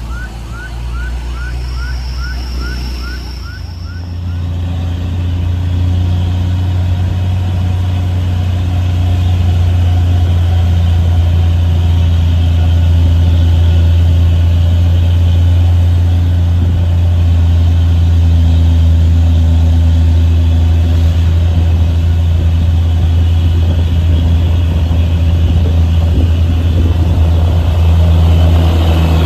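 Heavy vehicle engine running with a steady deep drone that grows louder about four seconds in and then holds. Before that, a quick series of short rising electronic chirps, about four a second, stops.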